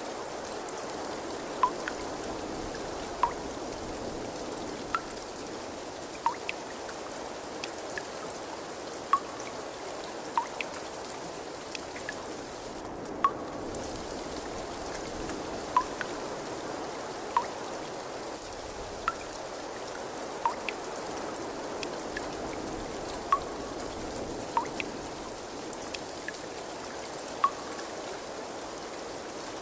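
Steady trickling water with clear water drops plinking into water, one about every second and a half.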